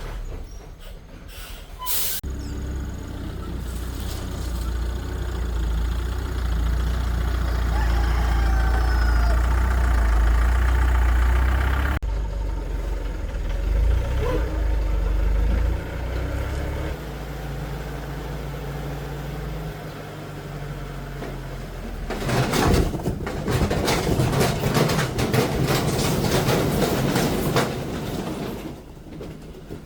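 A heavy vehicle's engine running with a deep, steady rumble that changes about twelve seconds in and then eases off. Later comes a loud clattering rush lasting several seconds.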